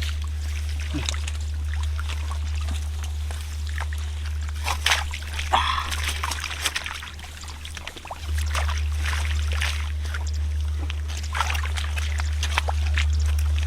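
Shallow water sloshing and trickling, with scattered sharp splashes and knocks, over a steady low hum.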